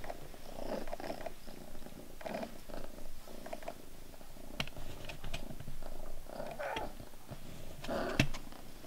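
A female house cat in heat purring and making short calls every second or two, with a few light clicks.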